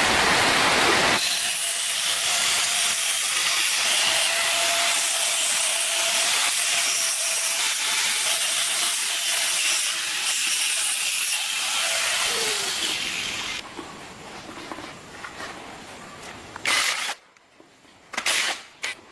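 A power tool running with a steady hiss and a faint whine, which stops after about thirteen seconds; a few sharp knocks follow near the end.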